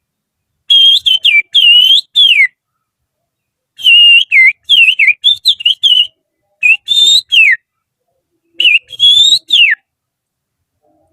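Loud finger whistling imitating a bird's song, in the style of an oriental magpie-robin: four short phrases of warbling notes that bend up and down, several ending in a quick falling slide, with brief pauses between the phrases.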